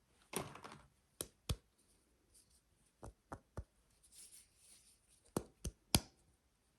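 Light, sharp taps on soap or its packaging during a soap unwrapping, coming in groups of about three, a third of a second apart, with faint crinkling of wrapping between them.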